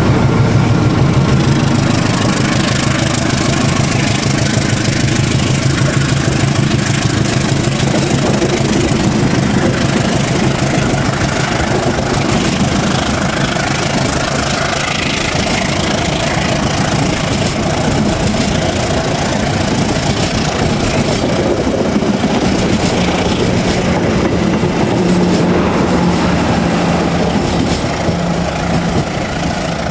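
A CC201 diesel-electric locomotive passes close while pulling away, its diesel engine running under load, followed by a long line of passenger coaches rolling past with continuous wheel-on-rail noise.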